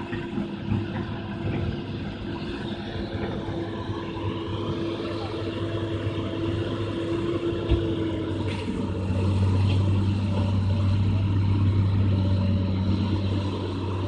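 Excavator's diesel engine running steadily, growing louder and deeper about nine seconds in, with a couple of short knocks shortly before.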